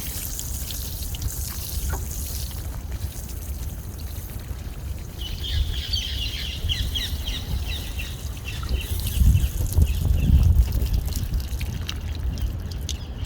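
Birds twittering, a quick run of high chirps for a few seconds midway, over a steady trickling, rushing noise with a low rumble.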